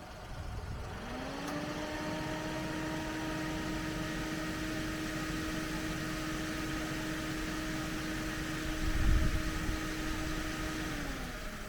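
An engine speeds up, runs at a steady pitch for about ten seconds, then winds down. A low thump comes about nine seconds in.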